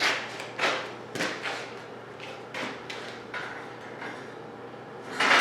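A run of irregular knocks and clunks, as of hard objects being handled and set down, about seven or eight in five seconds. The loudest come at the start and near the end.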